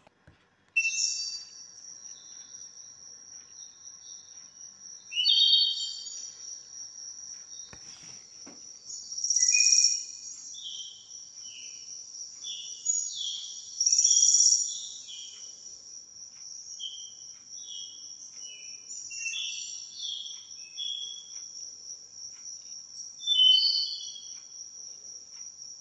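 A steady, high-pitched insect trill, with short bird chirps and calls over it, the loudest around five, ten, fourteen and twenty-four seconds in.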